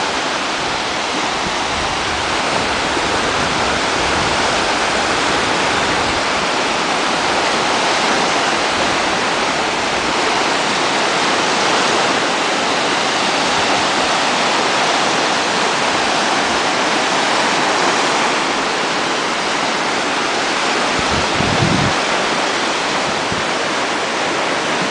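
Waves on a mountain lake washing onto the shore in the rain: a steady rushing hiss that swells and eases gently, with a brief low thump about three quarters of the way through.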